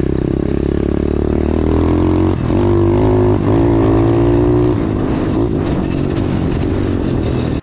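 Dirt bike engine running, revving up a little over two seconds in and easing back off about two seconds later, then cutting off suddenly.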